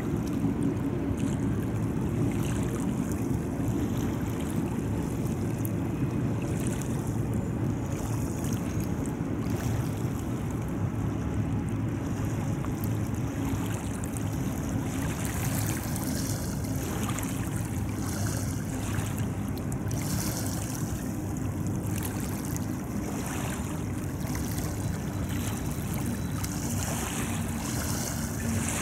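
Steady low rumble of a freight train's diesel locomotives, with a faint engine hum in it, under an even wash of wind and water noise.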